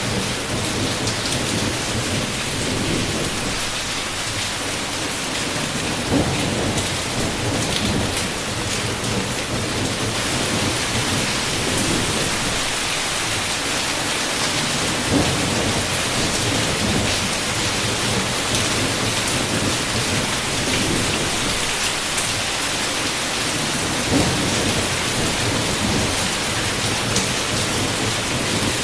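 Heavy rain falling steadily on a window, with low thunder rumbling and rolling underneath. A few brief sharper hits stand out about six, fifteen and twenty-four seconds in.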